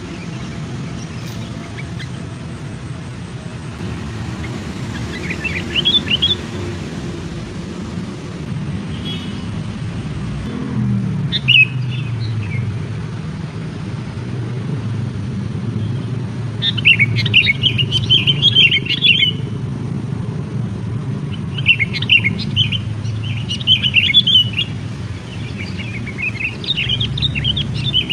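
Small birds chirping and warbling in short, fast bursts that come several times, busiest in the second half, over a steady low rumble.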